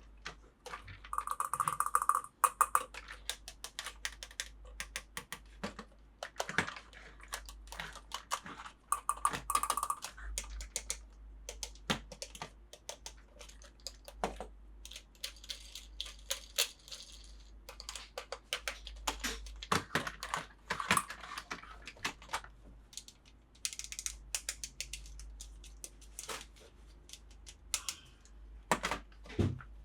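Close-up handling of plastic toy pieces and packaging: a steady run of irregular clicks, taps and light rattles, with short crinkling passages and a couple of brief squeaks.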